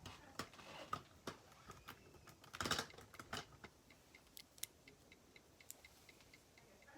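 LEGO pieces being handled and fitted: irregular small plastic clicks, with a louder cluster of clicks a little under three seconds in and sparser light ticks after.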